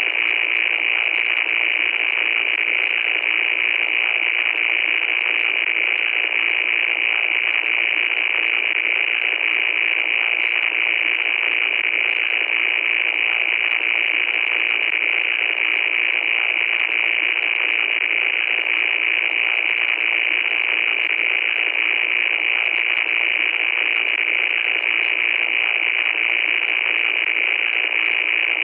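Loud, steady static hiss, like radio static, held to a narrow middle band and brightest in the upper part of it, with faint crackling ticks over the top.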